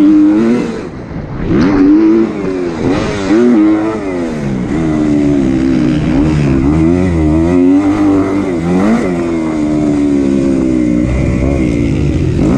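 A Kawasaki KX250's four-stroke single-cylinder motocross engine revving hard under race load. Its pitch climbs and falls again and again as the throttle is rolled on and off and the gears change, with a short drop off the throttle about a second in.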